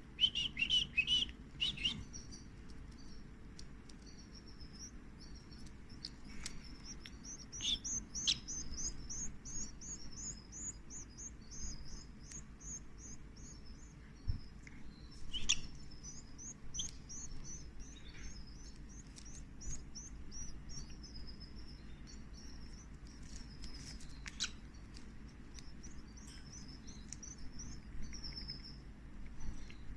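Canary chicks begging while being fed: a rapid, high-pitched cheeping that keeps up almost without a break. A few louder chirps come in the first two seconds, and there are scattered soft clicks.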